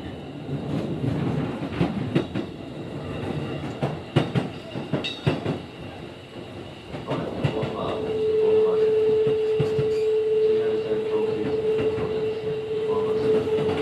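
Keikyu 1500 series train car with a Mitsubishi VVVF inverter running, heard on board. The wheels clack and knock over rail joints through the first half. After that a single steady whine sets in over the rumble and holds.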